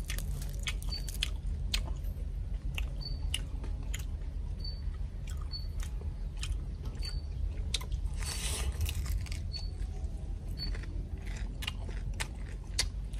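A person chewing and crunching crispy deep-fried crocodile head meat and skin, with irregular sharp crackles as the crisp crust breaks.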